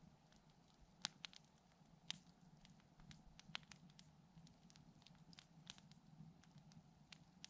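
Quiet wood campfire crackling: irregular sharp pops and ticks, with a few louder pops about one, two and three and a half seconds in.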